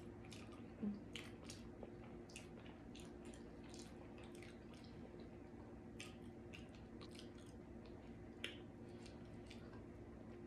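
Faint, close-miked chewing of saucy barbecue rib tips: wet mouth smacks and clicks, a few a second, over a low steady hum.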